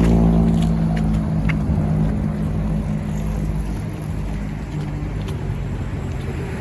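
A motor engine running with a steady low drone, loudest at the start and fading away over about five seconds as it moves off.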